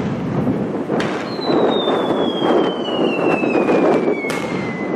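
Aerial firework shells bursting, one sharp bang about a second in and another near the end, over a steady rushing noise. Between them, a long whistle slowly falls in pitch for over three seconds.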